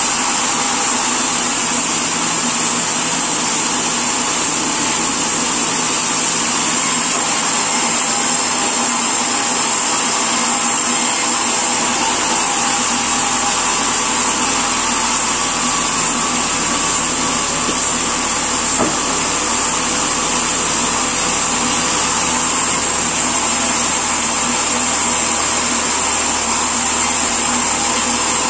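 Sawmill machinery running steadily, a loud unbroken mechanical noise with a constant high whine; a deeper rumble comes in about halfway through.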